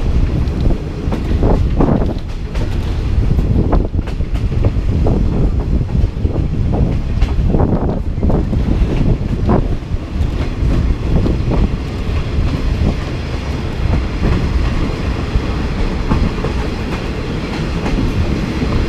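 Passenger train running on the rails, a dense steady rumble with irregular clanks and knocks from the wheels and carriage.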